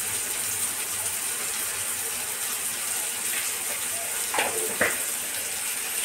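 Tomatoes and onions frying in a steel kadai, a steady hissing sizzle. Two light clicks about four and a half seconds in.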